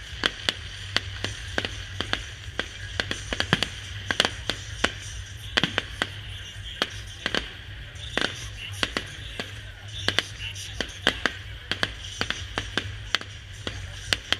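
Fireworks going off in a rapid, irregular run of sharp bangs and cracks, several a second, with music playing underneath.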